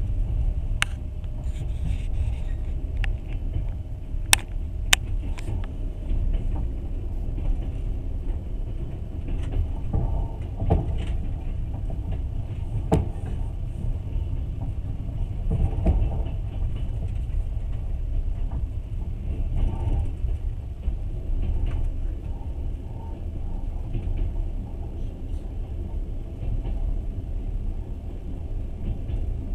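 Steady low rumble of a passenger train running, heard from inside the carriage, with a few sharp clicks and knocks scattered through it.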